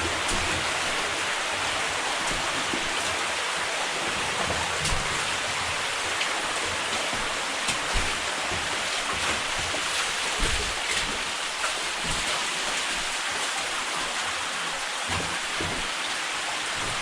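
Steady rush of running or dripping water in a wet mine passage, like heavy rain, with a few low thumps.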